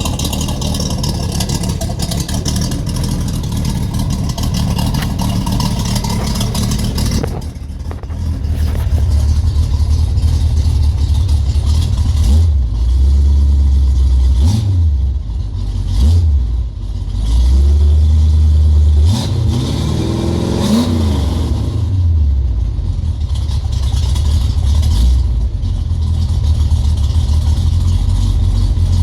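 Ford 351 Windsor small-block V8 running through homemade boom-tube side-exit mufflers with Spintech mufflers inside, loud and deep at idle. About halfway through it is revved in a few short throttle blips, the longest rising and falling again around two-thirds of the way in.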